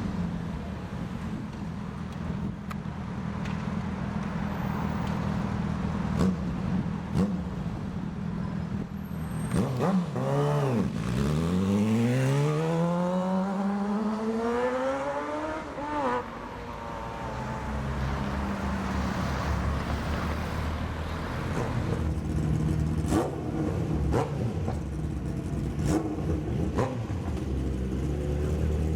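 Sport motorcycle engine running at a steady low idle, then revving and accelerating hard about ten seconds in, its pitch rising steadily for several seconds before it settles back to a steady engine drone amid street traffic.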